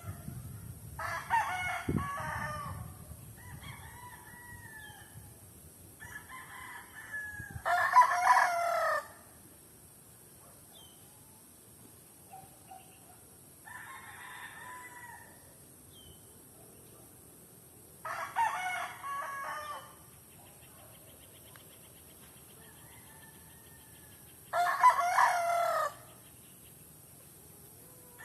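Roosters crowing: four loud crows several seconds apart, with fainter crows and calls in between.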